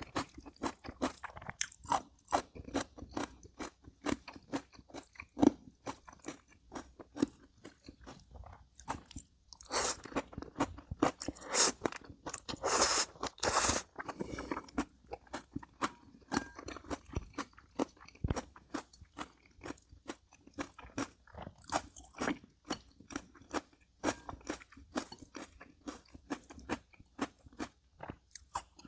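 Close-miked eating: a person chewing and crunching crisp food, many sharp crunches in quick, irregular succession, with a louder stretch of longer eating sounds around the middle.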